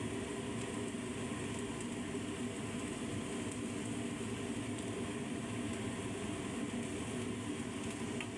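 Chicken breasts frying steadily in a pan, a continuous sizzle over a low, even hum.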